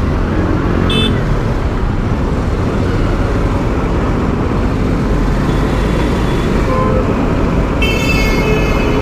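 Steady wind and road noise of a motorcycle riding through traffic. A short vehicle horn sounds about a second in, and a longer, louder horn near the end.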